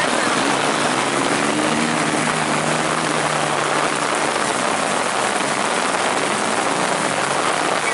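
Heavy rain hissing steadily, with a motorcycle engine faintly droning and shifting in pitch during the first few seconds.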